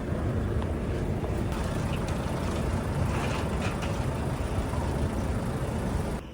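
Steady low rumble of motor vehicles, with a few faint high ticks over it; it cuts off suddenly near the end.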